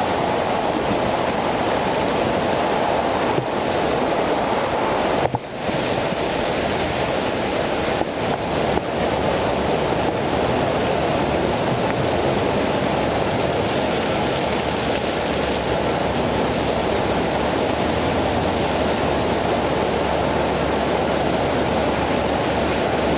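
Steady rushing of wind over a bicycle-mounted camera's microphone while riding on wet roads, with a brief dip about five seconds in.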